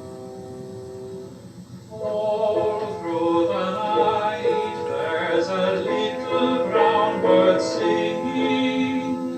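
A held piano chord fades away, and about two seconds in a man's voice begins singing a slow art-song ballad with broad vibrato over piano accompaniment, on an old home tape recording.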